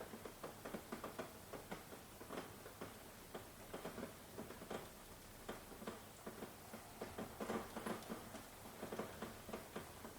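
Rain falling, heard as a soft steady hiss with many irregular drop taps.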